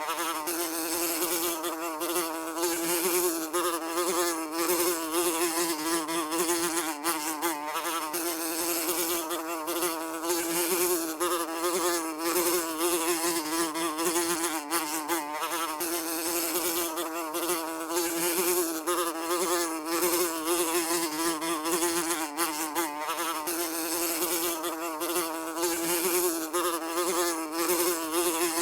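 A fly buzzing continuously, a steady drone on one pitch that wavers slightly up and down.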